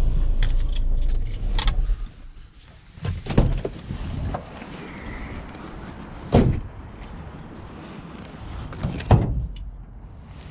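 Knocks and bangs of scrap being shifted and handled at a loaded van: three sharp hits about three seconds apart, with smaller clicks and a low rumble of wind on the microphone in the first two seconds.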